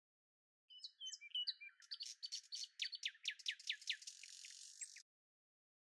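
Songbirds chirping: a few scattered high notes, then a quick run of short descending chirps that cuts off suddenly near the end.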